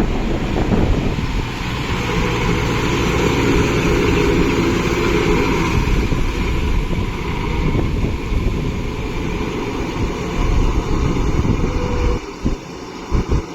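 Kubota MU5502 tractor's four-cylinder diesel engine running steadily, likely under rotavator load, with wind on the microphone. The sound drops noticeably quieter about twelve seconds in, with a few short knocks.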